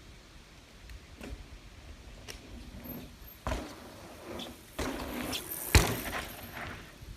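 A few knocks and clatters of handled objects, the sharpest and loudest about six seconds in.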